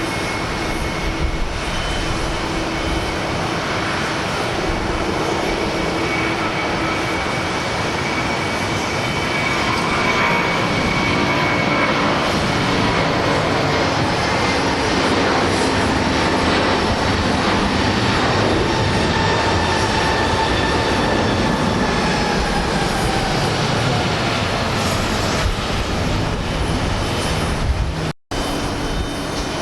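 Jet airliner engines at takeoff thrust: loud, steady jet noise with whining tones that slowly fall in pitch as the aircraft goes past and away. The sound drops out for a moment near the end.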